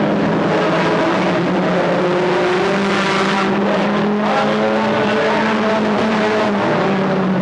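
Several stock car engines running together at speed, a steady, loud sound with small shifts in pitch.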